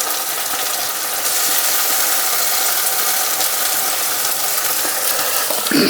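Onion, capsicum and tomato-sauce masala frying in oil in a kadai, sizzling steadily.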